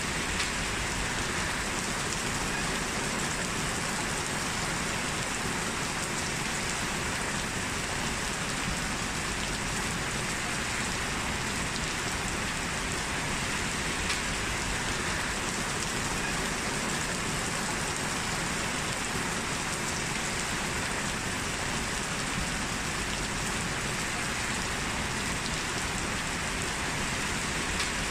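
Steady heavy rain falling, an even hiss with faint drop patter.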